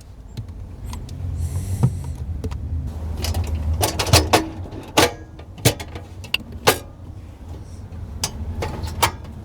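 Gear being handled and packed away in the back of a car: a run of knocks, clicks and rattles over a low steady rumble.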